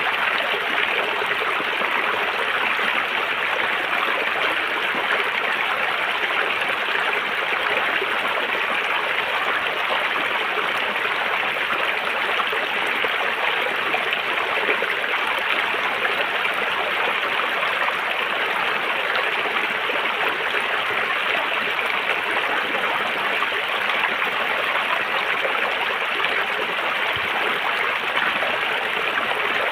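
River water running over rocks: a steady rushing and babbling with no change in level.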